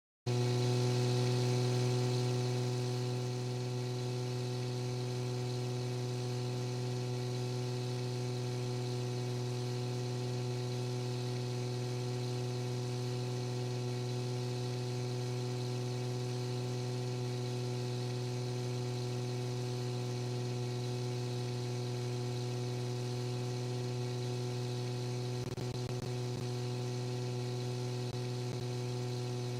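A steady, unchanging hum with a stack of evenly spaced overtones, strongest in its low fundamental.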